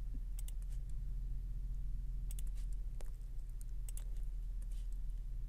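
Scattered keyboard and mouse clicks at a computer, a few single and paired clicks, over a steady low electrical hum.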